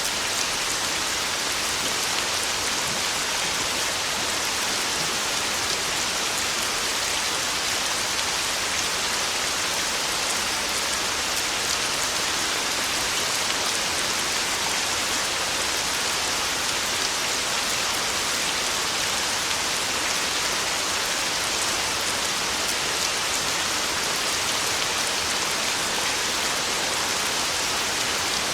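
Heavy rain drumming steadily on a tin roof: a dense, even hiss that keeps the same level throughout, with no thunder.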